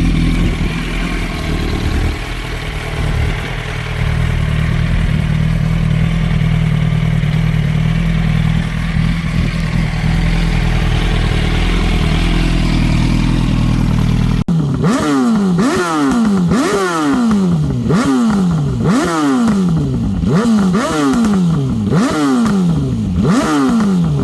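Yamaha YZF-R1's inline-four engine breathing through a Delkevic decat exhaust, running at a steady idle. Partway through it is revved again and again in quick blips, the pitch climbing and falling back more than once a second.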